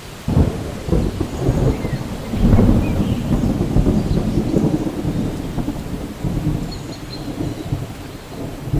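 Steady rain with a roll of thunder that breaks in sharply just after the start, swells to its loudest about two and a half seconds in, then rumbles on more weakly.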